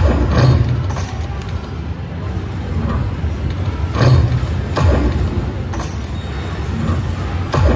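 Railroad Riches slot machine playing its game music and spin sound effects, with a sharp hit now and then as the reels land.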